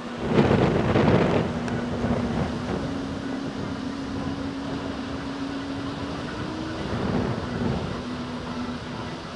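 Storm wind blowing hard across the microphone, with a strong gust about half a second in and another around seven seconds, over a steady low hum.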